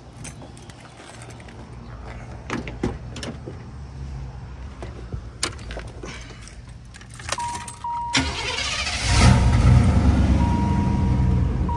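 Car's engine cranked and started after a few clicks, then running loud and steady from about nine seconds in. A steady tone comes on just before the start.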